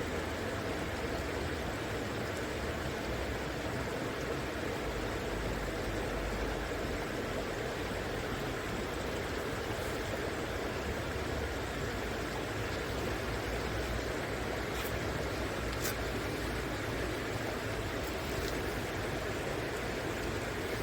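River water rushing steadily, an even flowing-water noise with no change in level.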